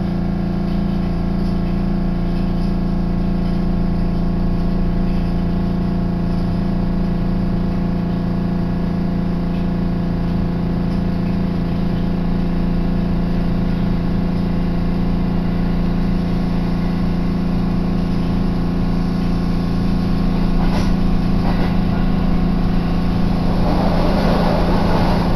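Steady hum heard inside a commuter electric train, holding one pitch throughout. A rumbling, clattering running noise rises over the last couple of seconds.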